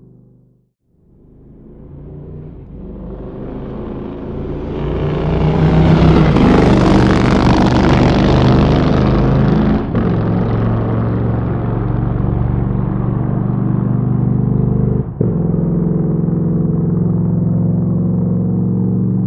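Motorcycle engine running, swelling up from silence over the first few seconds and then holding a steady engine speed, with two brief dropouts near the middle and later on.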